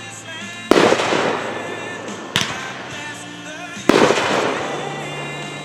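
Fireworks bursting overhead: three loud bangs about a second and a half apart, each dying away, with music playing underneath.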